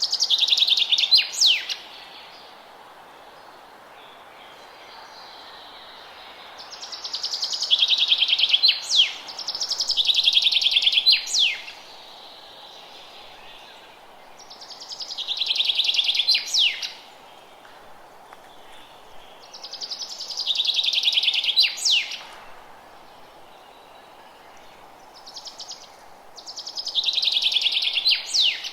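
A songbird repeating a short song every five to six seconds: a fast high trill that ends in a few quick downward-sweeping notes, over a steady faint background hiss.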